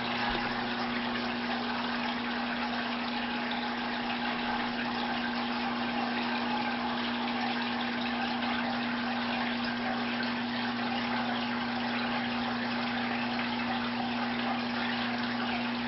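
Aquarium filter pump running with a constant rush of moving water and a steady electrical hum.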